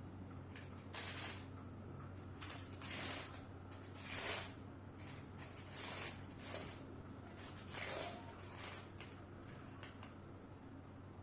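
Paper rustling and crinkling in short, irregular bursts about once a second as small birds play with it.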